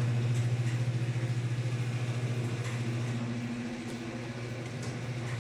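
A steady low machine hum with a fast, even flutter, easing slightly in level about three and a half seconds in.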